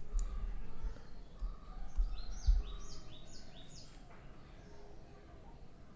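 A small bird chirping in the background: a quick run of about seven short high chirps, alternating between two pitches, about two seconds in. A few dull low thumps, the sharpest in the middle of the chirping, sit under a low hum.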